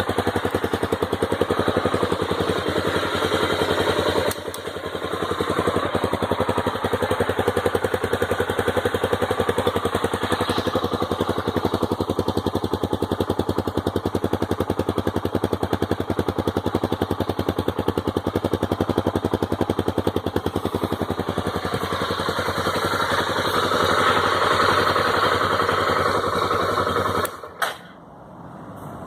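Honda Tornado 250's single-cylinder four-stroke engine running with a rapid, even beat. It dips briefly about four seconds in, runs a little louder for a few seconds later on, and stops abruptly shortly before the end.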